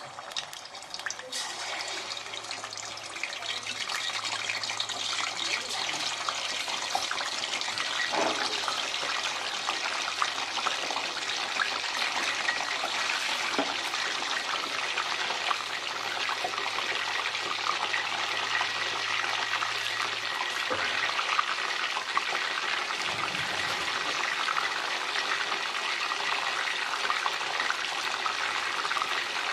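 Chicken drumsticks deep-frying in hot oil: a dense, steady sizzle and crackle that builds over the first few seconds as more pieces go into the pot.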